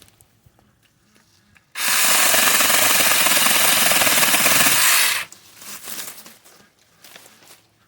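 Cordless 6-inch mini chainsaw running and cutting through a bush branch: a loud, even rasping noise that starts abruptly about two seconds in and cuts off sharply about three and a half seconds later. Fainter rustling and clicks of brush before and after.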